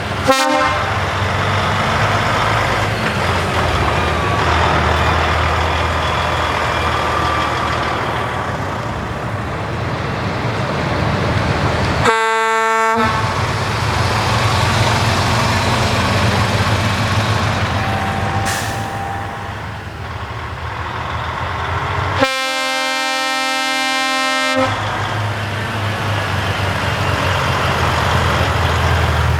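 Heavy truck engines running, with three truck horn blasts: a very short one at the start, one of about a second midway, and a longer one of about two seconds near the end.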